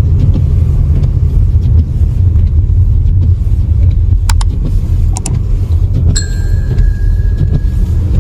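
Loud, steady low rumble of a motor vehicle on the road. A few faint clicks come in the middle, and a steady electronic beep of about two seconds comes near the end.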